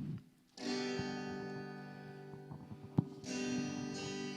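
Acoustic guitar strumming a chord about half a second in and another about three seconds in, each left to ring and slowly fade, with a sharp click just before the second chord.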